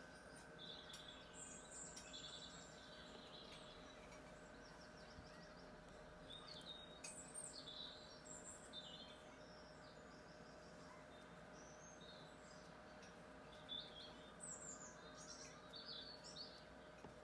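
Faint birdsong: several small birds chirping and trilling in short high phrases scattered throughout, over a faint steady hum.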